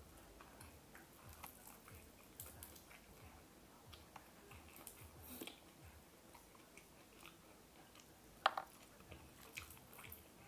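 Faint, close-miked chewing of deep-fried tilapia and rice eaten by hand, with scattered small crisp clicks and one sharper click about eight and a half seconds in.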